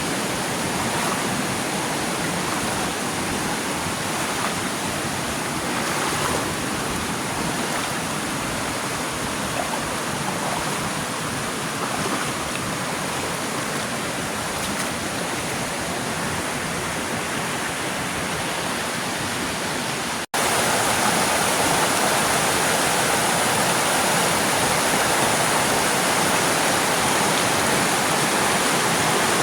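Waterfall water rushing steadily. About two-thirds of the way through there is a sudden cut to a slightly louder stretch of the same rushing water.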